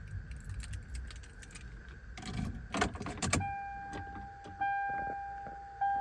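Keys jangling and clicking in a 1996 Toyota Tacoma's cab, then, about three seconds in, the dashboard warning chime starts, sounding again about every second, as the key sits in the ignition before a cold start.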